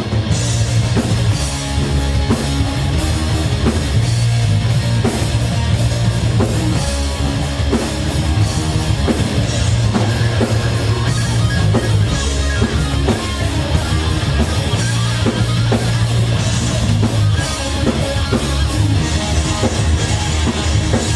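Rock band playing live, an instrumental passage with electric guitars, bass and a drum kit and no singing.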